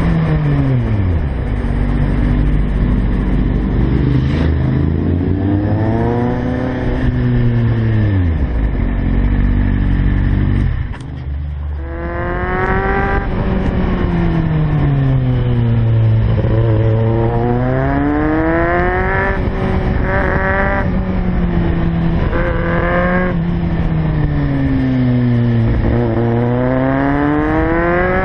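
Kawasaki Z750's inline-four engine heard from on board, its pitch rising and falling several times as the rider opens and closes the throttle through the bends. The sound briefly drops in level about eleven seconds in.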